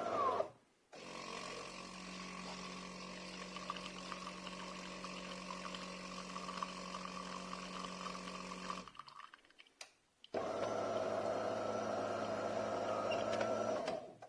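De'Longhi Magnifica S automatic espresso machine running through its cycle in starts and stops. A steady hum cuts off about half a second in. A quieter, slightly crackly motor run lasts about eight seconds. After a pause, a louder steady hum starts again and cuts off near the end.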